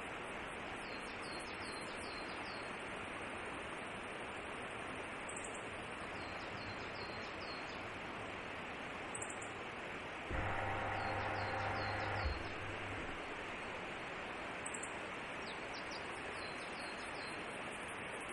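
Steady outdoor background hiss with a small bird repeating a short phrase of five or six quick, high, falling notes about every four seconds; the uploader takes it for a meadow bunting. About ten seconds in, a low mechanical hum sounds for about two seconds, louder than the rest.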